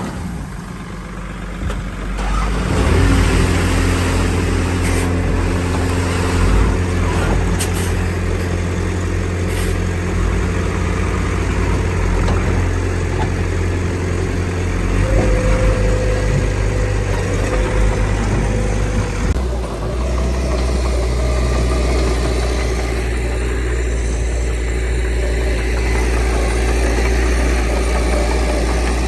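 Heavy diesel engine of earthmoving machinery running, working up about two seconds in and changing pitch around fifteen and again around twenty seconds in as the load changes.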